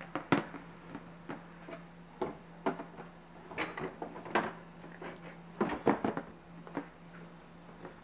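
Irregular knocks and clatters of bottles and containers being bumped and shifted inside a refrigerator, over a steady low hum.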